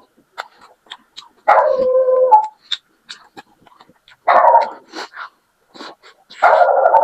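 A dog barking three times, the first a longer drawn-out bark, with soft chewing and mouth clicks from eating between the barks.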